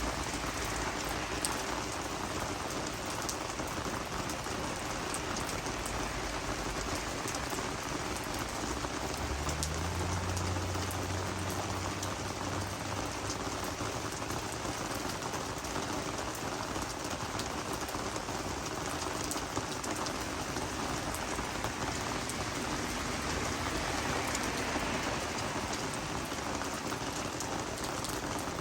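Steady rain falling on garden vegetables and flowers, with many single drops ticking on the leaves. A faint low hum comes in for a few seconds about a third of the way through.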